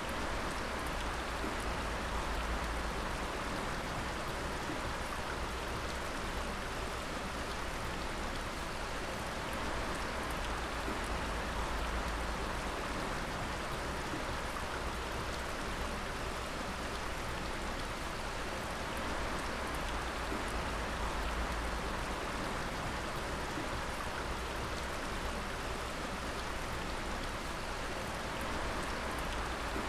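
Water dripping and pattering steadily, a dense, even patter of many drops falling onto water and rock, with a low rumble underneath.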